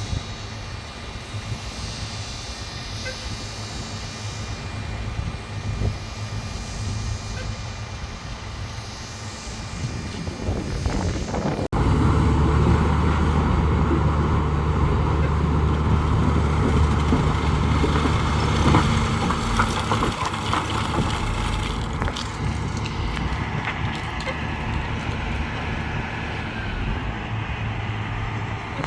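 Diesel engine of heavy construction machinery running steadily. About 12 s in, the sound jumps abruptly to a louder, deeper engine under load, which eases back a little after about 20 s.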